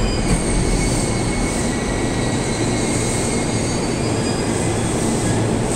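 JR East E233-1000 series electric train pulling into the platform and slowing. It makes a steady rolling rumble of wheels and running gear, with a faint high whine over it.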